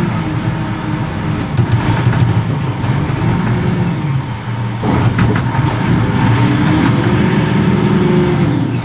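Reach stacker's heavy diesel engine running, its pitch rising and falling as it revs up and eases off a couple of times, with a brief knock about five seconds in.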